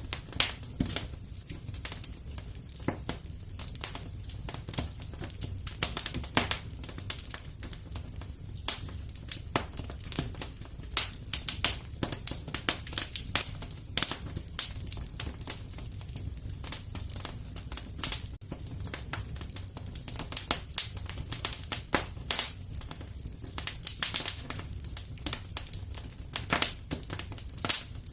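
Wood fire crackling in a fireplace: irregular sharp pops and snaps over a soft, steady low rumble of the flames.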